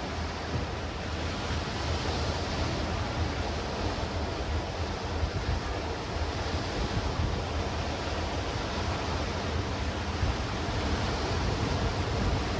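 Sea waves surging and breaking against black rocks and stones on a rocky shore, a continuous wash of surf with small swells in loudness. Wind rumbles on the microphone underneath.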